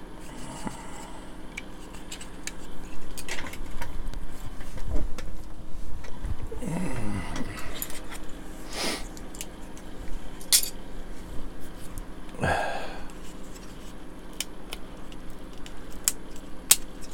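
Hard plastic model-kit parts clicking, snapping and clattering as the kit is pried apart by hand, its old glue joints giving way. There are scattered sharp clicks, a few louder ones past the middle.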